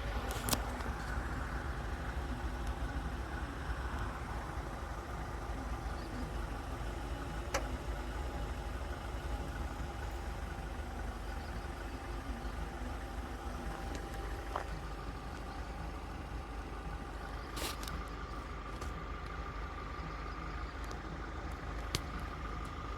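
A car engine running steadily with a low rumble, heard from inside the vehicle, with a few faint clicks.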